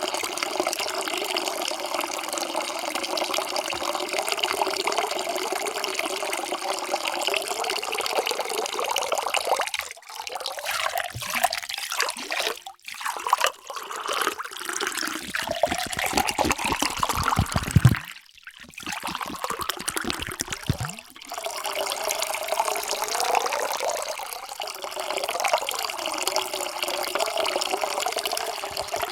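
Water being poured into a vessel in several separate pours, with short breaks between them. In some pours the pitch rises as the vessel fills.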